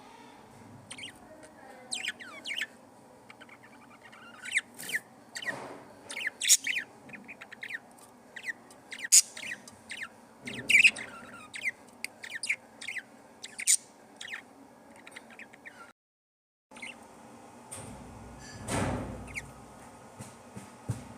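Budgerigars chirping and squawking in many short, sharp calls, with a brief rustle near the end.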